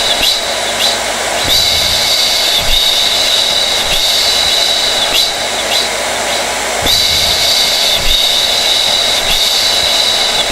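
Blow dryer running steadily: a rush of air with a high motor whine that dips briefly every second or so.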